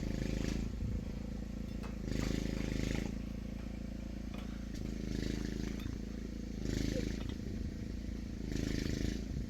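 An engine running steadily, with a short scraping, crackling burst about every two seconds.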